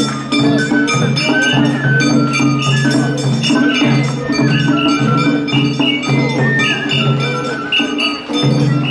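Traditional Japanese festival music (matsuri-bayashi): a high melody moving in steps over held low notes and a steady percussion beat.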